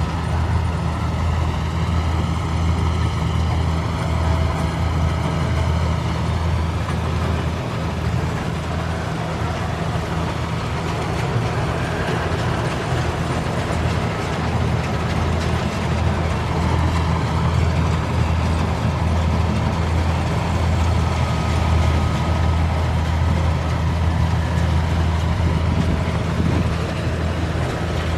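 Kubota combine harvester's engine running steadily under work, with a faint wavering whine for a few seconds near the start.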